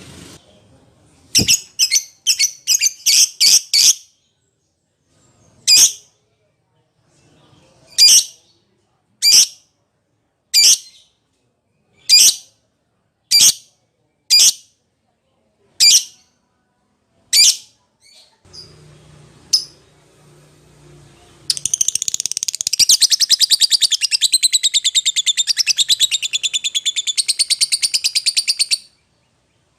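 A lovebird calling. A quick run of sharp, shrill chirps is followed by single sharp calls about one a second. Near the end comes a long, fast chatter of rapid chirps lasting about seven seconds. This is a bird calling to a mate or a rival.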